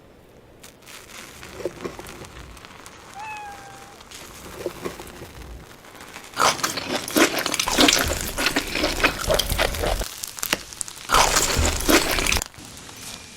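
Close-miked crackling and crunching from a fried chicken and burger meal. It is faint at first, then loud in one long stretch from about six to ten seconds in and a shorter one near the end.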